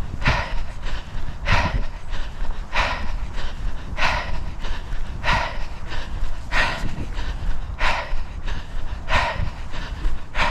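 A person breathing hard while running, one loud breath about every second and a quarter, over a steady low rumble of wind on the microphone.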